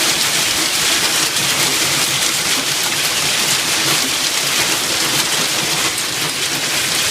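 Hail pelting down thickly: a dense, steady clatter of countless small ice impacts.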